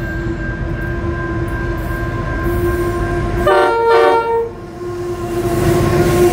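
Diesel freight train led by two GWU-class locomotives approaching and passing, with a steady engine and wheel rumble. About three and a half seconds in, the locomotive horn sounds two short blasts.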